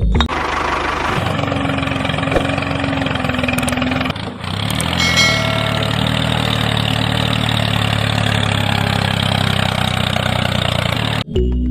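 An engine running steadily, dipping briefly about four seconds in and then picking up again with a rising pitch, before cutting off abruptly near the end.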